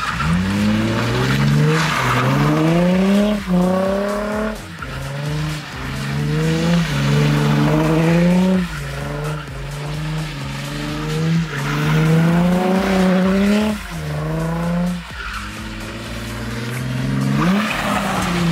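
Nissan 350Z's 3.5-litre V6 revving hard during wet-asphalt donuts. The revs climb and drop back again and again, every second or two, over a steady hiss of sliding tyres on the wet surface.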